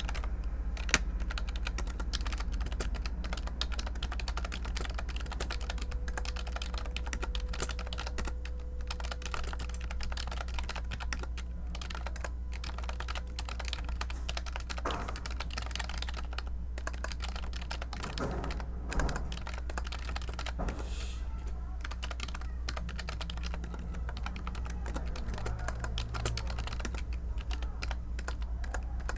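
Continuous typing on a computer keyboard: a dense, irregular run of key clicks over a steady low hum.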